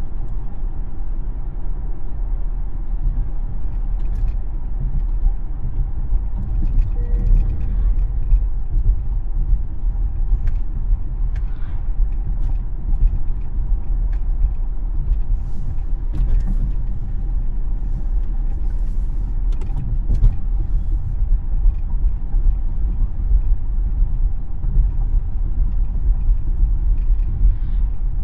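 Steady low rumble of a Tesla electric car driving on local roads, mostly tyre and road noise with no engine sound. Faint clicks come and go, and a brief faint tone sounds about seven seconds in.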